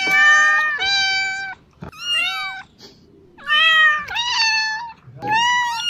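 Kitten meowing over and over: about six short, high-pitched meows in quick succession, some rising and falling in pitch.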